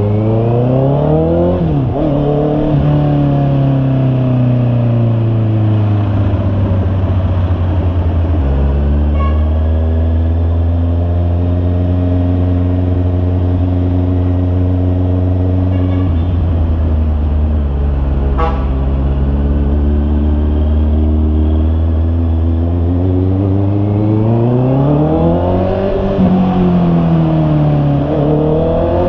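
Honda CB650R's inline-four engine under way. It revs up and shifts near the start, runs at a steady cruising speed through the middle, then revs up and shifts again near the end.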